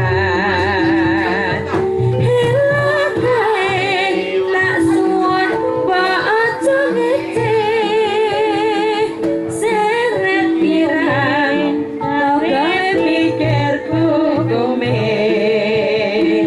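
A young sinden, a female Javanese vocalist, singing with wavering vibrato over a gamelan (karawitan) ensemble, whose struck metal notes hold steady beneath her along with low beats.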